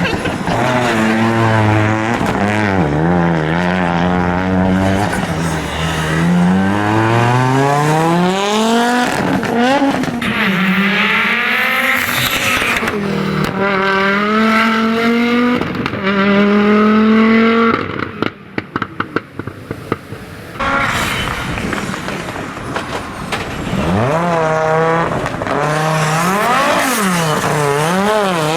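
Audi Quattro S1 rally car engine driven flat out, revs climbing and falling back again and again through gear changes. About two-thirds through, the revs drop away for a couple of seconds with a burst of crackles and pops on lift-off, then the engine pulls hard again.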